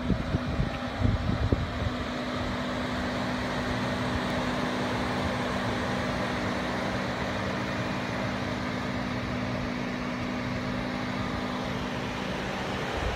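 Parked Rolls-Royce Wraith running at idle, a steady mechanical hum with two low steady tones. Wind buffets the microphone in the first couple of seconds and again near the end, when the hum's tones drop out.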